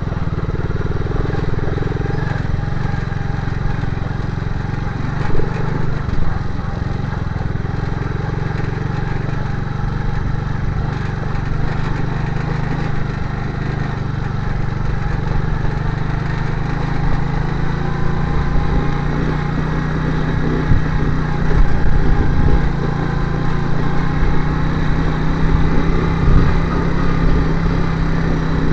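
Motorcycle engine running steadily, getting a little louder in the second half.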